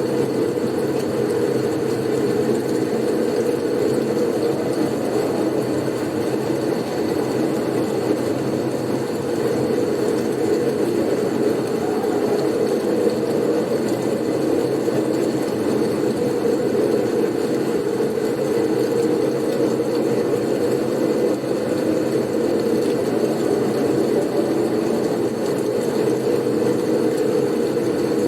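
Steady blizzard wind noise, an even low rushing sound with no gusts or breaks and a faint thin high tone running through it.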